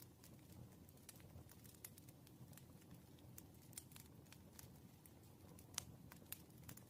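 Faint desk-work sounds of solving problems on paper: scattered small clicks and taps of a pen on paper, one sharper tap near the end, over a low, steady room hum.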